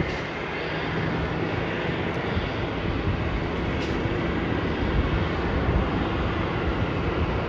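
Jet airliner engines heard across the airfield: a steady rushing noise with a faint hum through it.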